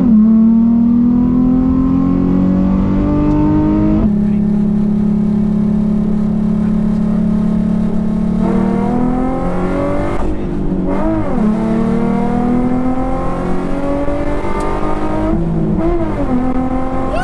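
Car engine pulling hard under full acceleration in a manual car, its pitch climbing steadily, with several gear changes where the note drops and then climbs again.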